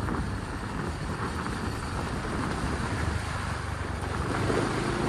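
Motorbike engine running steadily while riding along a road, with road and wind noise.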